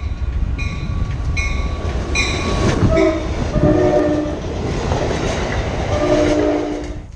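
Amtrak passenger train passing close by at a station platform, its wheels rumbling on the rails. A high tone repeats at a steady pace early on. Several train horn blasts sound in the second half, the longest near the end.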